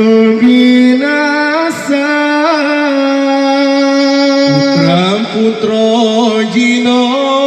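A solo voice singing long, drawn-out notes with wavering ornamented turns, in the style of a chant.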